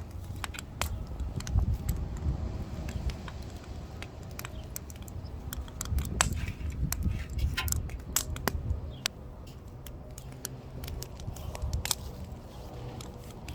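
Wood fire crackling, with irregular sharp pops over a low rumble.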